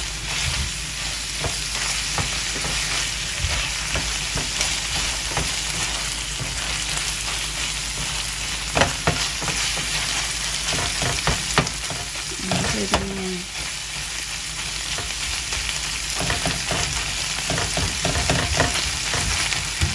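Canned tuna, onion and tomato sizzling in oil in a nonstick frying pan, with the spatula scraping and tapping against the pan as the mixture is stirred.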